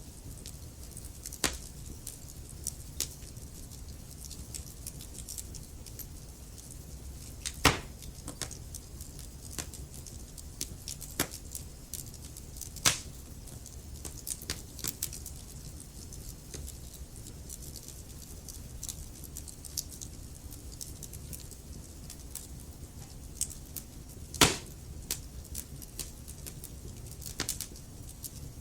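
Log fire crackling in a fireplace: many small, irregular crackles over a steady low rumble, with three louder pops, the last and loudest near the end.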